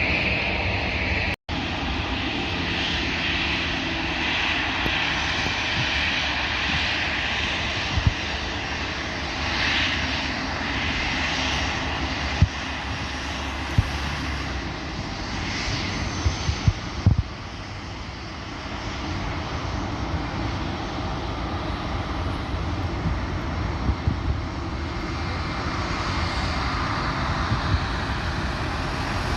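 Airliner engines running with a steady, loud rushing noise, with a brief dropout about a second and a half in. Several short low thumps sound over it.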